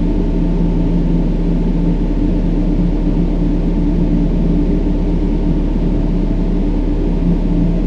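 Brown noise: a loud, steady, deep rumble with no changes, its weight in the low end, and a faint steady hum of low tones within it.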